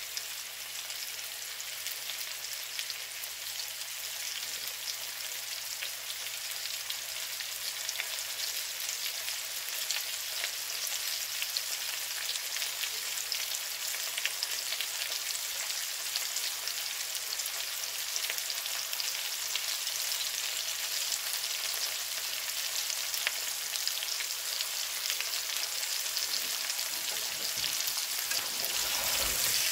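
Sliced potatoes, onions and green peppers frying in a skillet: a steady sizzling hiss with fine crackles that grows slowly louder.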